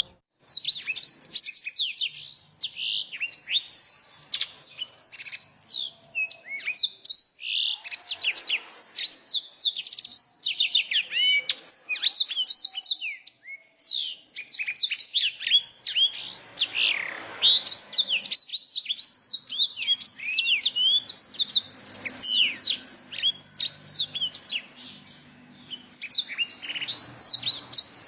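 Small songbirds singing in a dense, nearly continuous stream of high chirps and quick down-slurred whistles, phrases tumbling one after another with only brief pauses.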